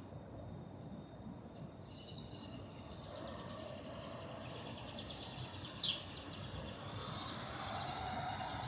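Birds calling outdoors: a few short, high calls that sweep downward, and a fast high rattling chatter, over a steady low background hum.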